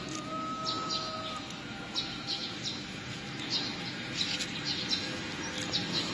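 Small birds chirping: short high chirps repeated irregularly, over faint background hiss.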